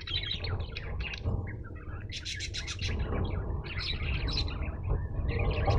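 Pet budgerigars chirping and chattering in a quick run of short calls, with a burst of rapid high chirps about halfway through, over a steady low rumble.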